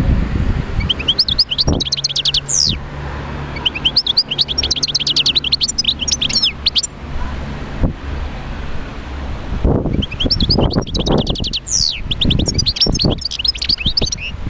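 European goldfinch singing: two long phrases of rapid twittering chirps, each with a sharp high downward-sweeping note, the second starting about halfway through. Low rumbling noise runs underneath.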